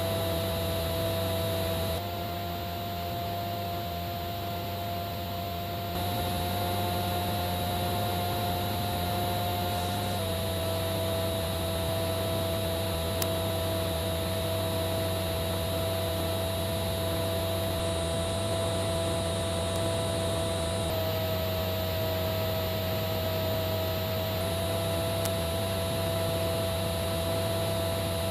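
A steady hum with a constant tone over hiss, shifting slightly in pitch and level several times where the footage cuts.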